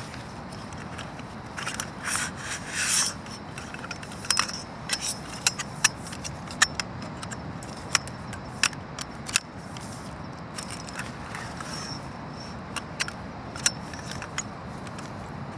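A Brooklyn Outdoor Company folding camp cot being assembled. For a couple of seconds the fabric and frame parts rub and scrape, then come a series of irregular sharp clicks and knocks as the frame pieces are fitted together.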